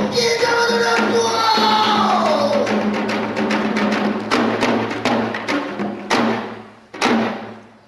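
A pansori singer holds a long note that slides down over janggu (Korean hourglass drum) strokes. The drumming thins to a few separate strokes, the last about seven seconds in, ringing out as the piece ends.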